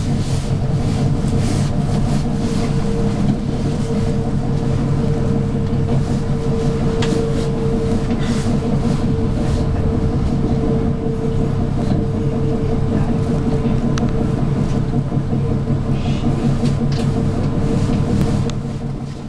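Intercity passenger train running at speed, heard from inside the coach: a steady rumble with a constant hum and scattered faint ticks.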